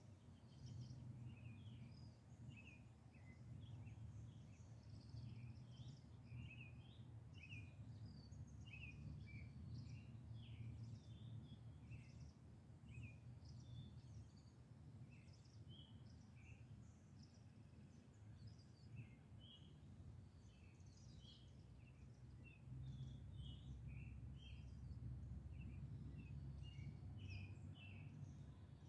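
Faint birdsong: many short bird chirps over a steady low rumble.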